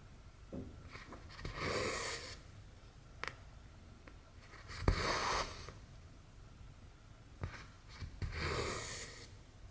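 Cotton embroidery thread drawn through 11-count cross-stitch fabric, a rasping swish three times about three seconds apart, with light clicks of the needle piercing and tapping the cloth between pulls.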